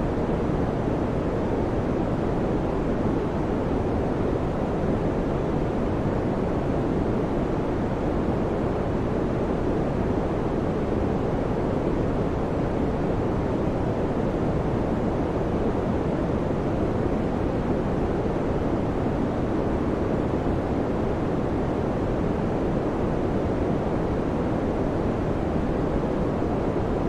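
Electric fan running steadily: an even, low whooshing rush of air with no changes.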